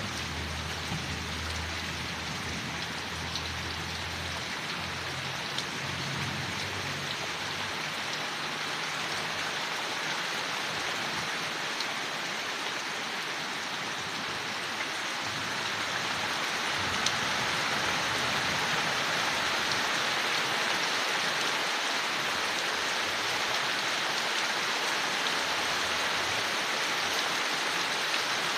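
Steady rain falling on leaves, an even hiss with no breaks. A low rumble of thunder dies away in the first few seconds, and the rain grows a little louder about halfway through.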